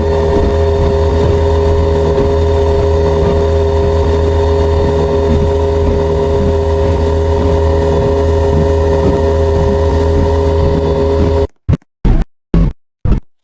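Ceiling fan motor running with a loud, steady hum made of several constant whining tones over a low rumble. Near the end it cuts off abruptly and gives way to a few short, separate knocks.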